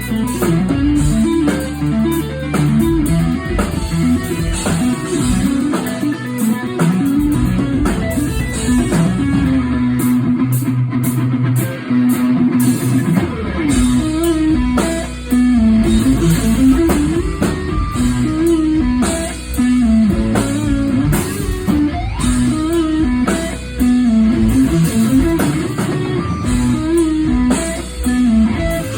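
Electric guitar played loud through an amplifier in a rock soundcheck: a long stream of quickly changing notes over a sustained bass line.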